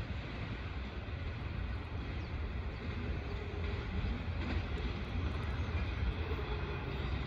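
Low, steady rumble of a freight train moving away into the distance.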